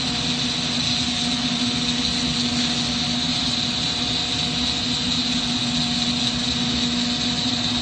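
Steady noise of a lampworking torch flame and the shop's ventilation running together, with a constant low hum under it.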